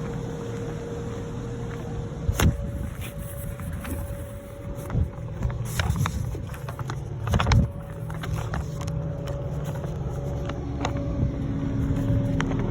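Truck engine running steadily, with several loud knocks and clunks, the loudest about two and a half and seven and a half seconds in, as the truck is loaded.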